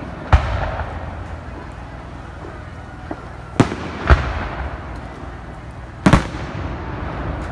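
Aerial firework shells bursting overhead: four sharp booms, one about a third of a second in, two close together around three and a half to four seconds, and one near six seconds, each followed by a trailing echo.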